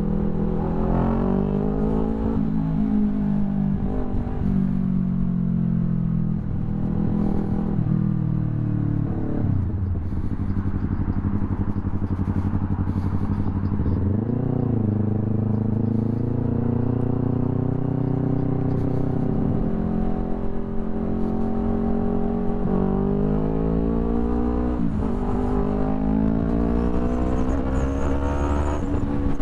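Yamaha YZF-R3's parallel-twin engine through an Akrapovič full exhaust, heard while riding. Its pitch climbs and drops several times as the bike accelerates, shifts and slows, with a quick rev up and back down about halfway through.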